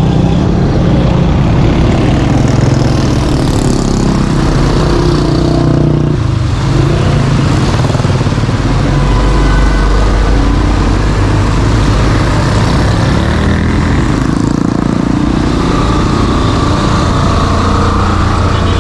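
Motor vehicle engines running close by, loud and steady, their pitch rising and falling as engine speed changes.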